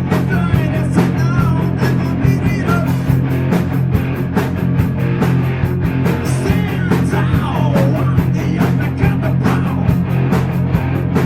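A heavy metal band playing: distorted guitars, bass and fast, steady drums, with a melodic line gliding up and down over them.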